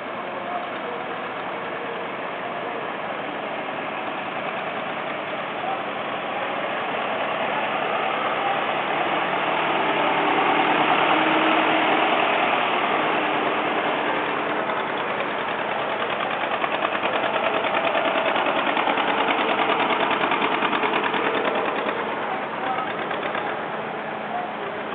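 Vintage farm tractor engines running as tractors drive past one after another, the engine sound swelling and fading twice as they pass close.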